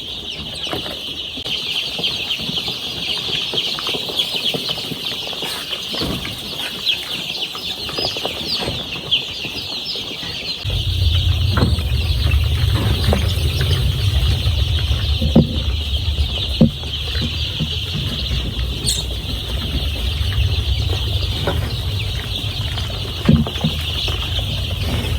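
A brood of young chicks peeping continuously, many high cheeps overlapping into a dense chorus. About ten seconds in a steady low rumble joins, with a few sharp knocks.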